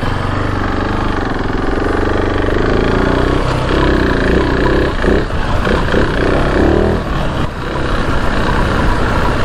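KTM 690 Enduro R's big single-cylinder engine running under load on a trail ride, its revs rising and falling as the throttle is worked.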